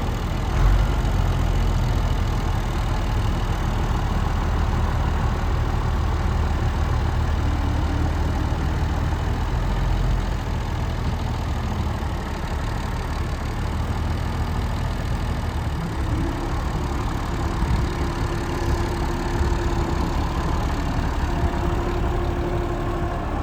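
Massey Ferguson 3545 tractor's diesel engine idling steadily, with a brief thump about a second in.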